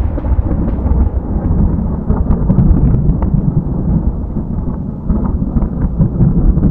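Loud, continuous deep rumbling with scattered crackles and pops.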